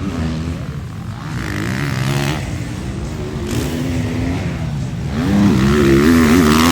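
Motocross bike engines revving, the throttle blipped so the pitch rises and falls over and over, getting louder in the last second or two.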